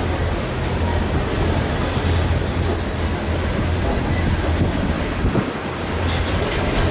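Covered hopper cars of a freight train rolling past: steel wheels rumbling and clattering on the rails in a steady, loud stream, with a dip in the low rumble about five seconds in.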